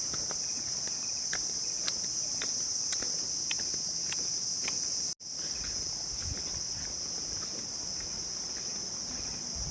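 A steady, dense chorus of night insects, crickets, shrilling without a break, with scattered faint clicks over it. The sound drops out for an instant about halfway through.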